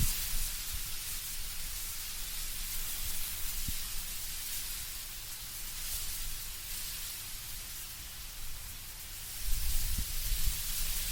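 Wind moving through autumn trees, with leaves rustling in a steady hiss. A low gust builds near the end.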